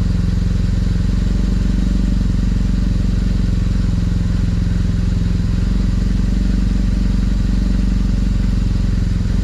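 Motorcycle engine idling steadily, with an even low hum that holds one pitch throughout.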